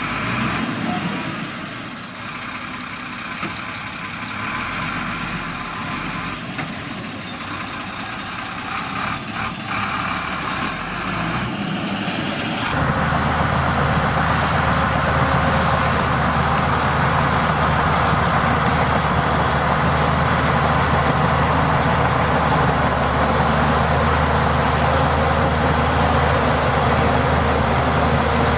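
Heavy diesel earthmoving machinery running, from bulldozers and dump trucks. About halfway through the sound jumps abruptly to a louder, steady engine drone.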